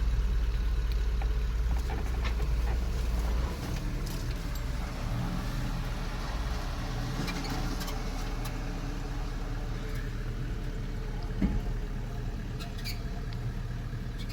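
4x4 vehicle engine running with a steady low rumble that eases off about three and a half seconds in. Scattered knocks run through it, with one sharper thump later on.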